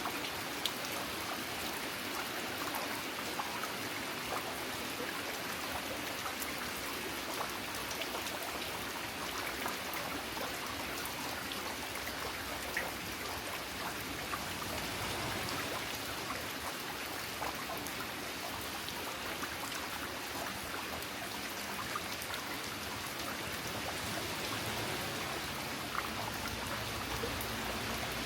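Steady rain falling, with scattered louder drops ticking.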